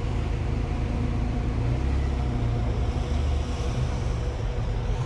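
Steady low rumble of running car engines, with a faint steady hum over it.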